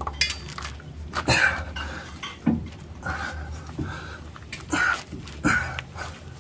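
Steel hub puller and tools clinking and knocking at irregular intervals as the puller is worked on a van's seized rear wheel hub, with hard breathing from the effort between the knocks.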